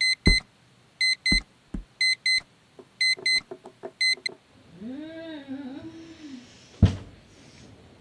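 Digital alarm clock beeping, two short high beeps about once a second, stopping about four seconds in as a hand reaches over and switches it off. Then a person's drawn-out groan and a single thump.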